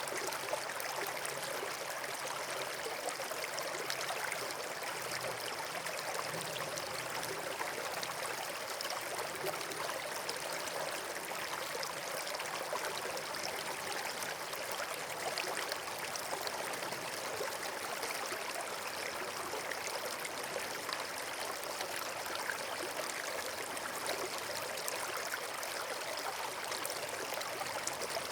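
Flowing water: a steady, even rush like a forest stream or small waterfall.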